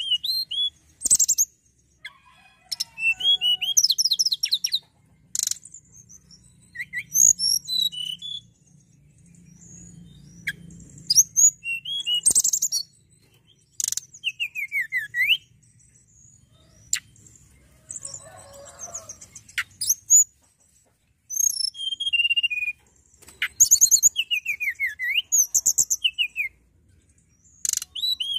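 A tledekan gunung songbird singing in short, rapid phrases of high chirps and whistles, with quick downward-sweeping notes, broken by brief pauses.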